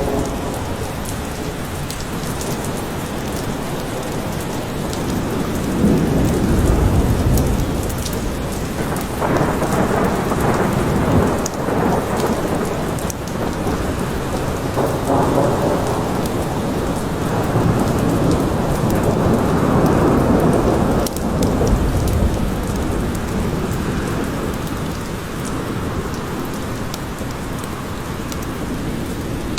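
Steady heavy rain with thunder rolling in long low rumbles that swell and fade several times.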